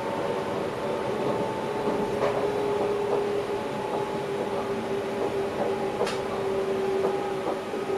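Electric passenger train running on the rails, heard from inside the driver's cab: a steady hum with a constant tone, and a few sharp clicks, the clearest about two and six seconds in.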